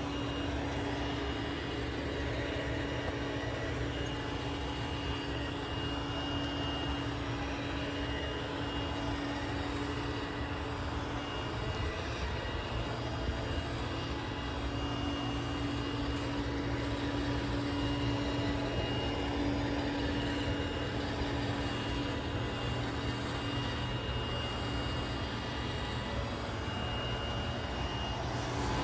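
iRobot Roomba Combo 10 Max robot vacuum running on high suction over carpet during its edge-cleaning pass: a steady motor drone with a low hum and a thin high whine.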